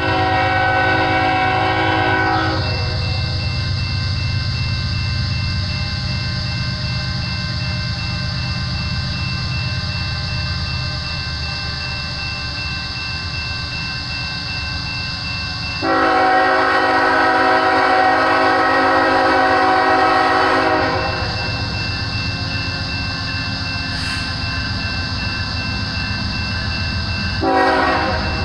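Freight train led by BNSF diesel locomotives (a GE ES44C4 and a C44-9W) rumbling along, its air horn chord sounding three times: one blast at the start, a long blast of about five seconds in the middle, and a short blast near the end.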